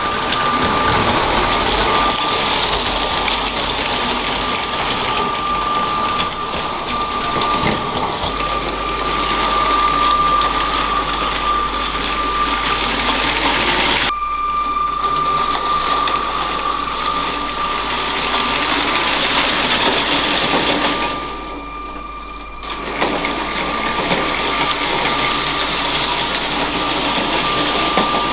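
LEGO train's small electric motor running with a steady high whine over a noisy rumble of wheels on plastic track. The sound shifts abruptly a few times and dips quieter for a couple of seconds about three-quarters of the way through.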